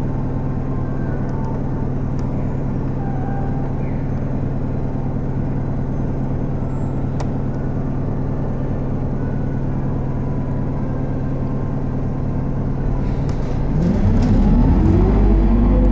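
Isuzu Erga city bus's four-cylinder diesel engine idling steadily, heard from inside the cabin. About 13 seconds in, the engine note rises and gets louder as the bus pulls away and accelerates.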